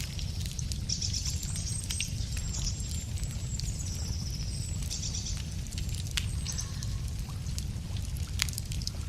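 Wood fire crackling, with scattered sharp pops, over a steady low rumble. A small songbird sings high trilled and whistled phrases through the first half and again briefly later.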